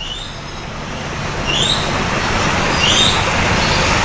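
A bird giving a short rising chirp about every second and a half over a steady rushing background noise that slowly grows louder.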